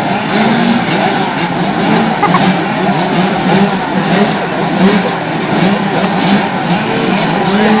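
A pack of 65cc and 85cc two-stroke youth motocross bikes revving hard, many engines rising and falling in pitch over one another.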